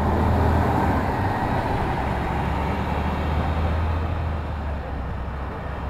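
City street traffic: a steady low motor-vehicle engine rumble with road noise, loudest in the first second or so and easing off near the end.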